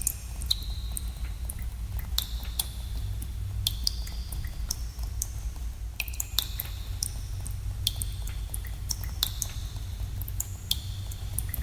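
Water drops falling in a cave, each an irregular sharp plink with a short high ringing tone, about one or two a second, over a steady low hum.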